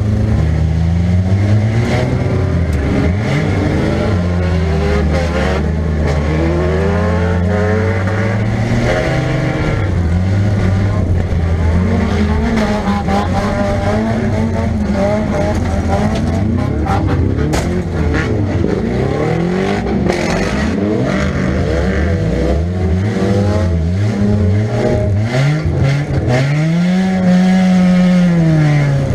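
1998 Nissan Pulsar's 1.8-litre four-cylinder engine, heard from inside the cabin, revving up and falling back again and again as the car accelerates and backs off. Sharp knocks and clatter from the car body break in here and there.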